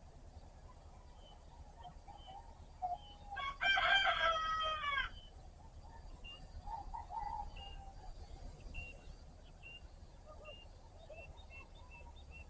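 A rooster crows once, a single loud crow lasting under two seconds about three seconds in. Small birds chirp faintly throughout.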